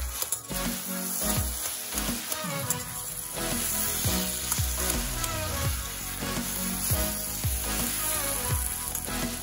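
Spice- and gram-flour-coated bottle gourd pieces sizzling as they fry in mustard oil in a kadai, while a slotted metal spatula scrapes and turns them. A background music beat runs underneath.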